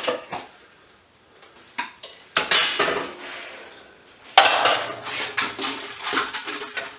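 Metal scrap lighting parts clanking and rattling as they are handled. There are a couple of sharp knocks about two seconds in and a longer, louder clatter in the second half.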